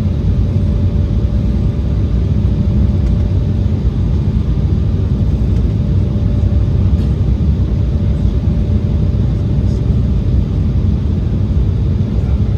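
Steady in-flight cabin noise of an Embraer 175 descending on approach: a low, even rumble of airflow and its two turbofan engines, with a faint steady hum running through it.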